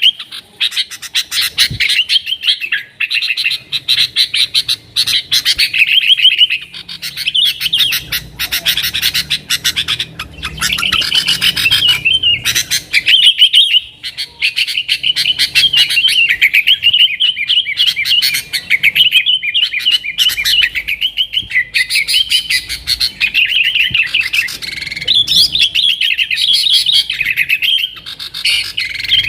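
Yellow-vented bulbul (trucukan) singing continuously in fast, chattering phrases, a long run of song with only brief pauses.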